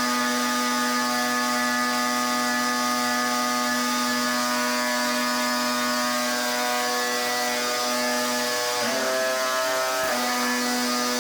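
Pressure washer running steadily, a constant machine tone over the hiss of the water jet. About nine seconds in, the tone changes pitch for roughly a second, then settles back.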